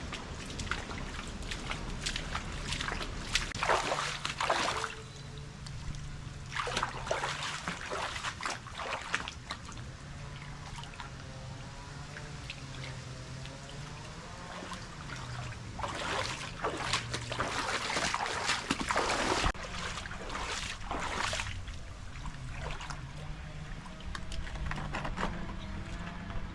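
Water splashing and pouring in several bursts of a few seconds each, with quieter trickling between them.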